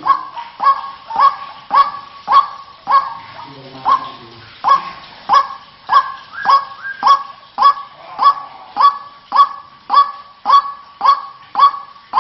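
White-breasted waterhen (ruak-ruak) calls played as a bird-lure recording: a loud call repeated about twice a second, with a short break about three to four and a half seconds in.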